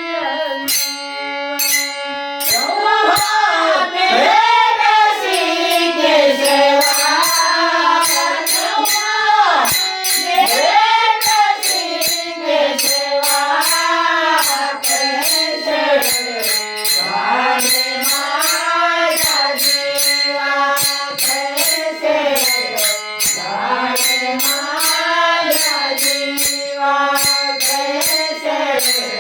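A woman singing a Marathi folk song in long, ornamented melodic phrases over held instrumental notes and evenly repeating jingling percussion. The voice comes in about two and a half seconds in, after the instruments play alone.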